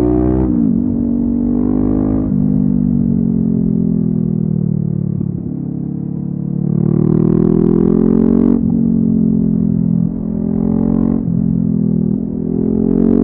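Honda CB500F's parallel-twin engine through a LeoVince aftermarket exhaust, pulling hard with quick upshifts where the pitch drops sharply. In the middle it winds down off the throttle for a few seconds, then accelerates again and shifts up twice more near the end.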